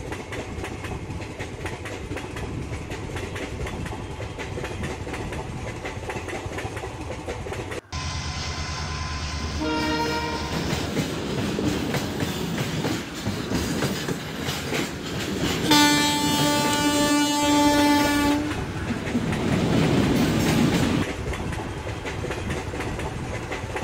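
Train running on rails with a clickety-clack rhythm, its horn giving a short toot about ten seconds in and a longer blast of nearly three seconds later on. The running sound changes abruptly about eight seconds in.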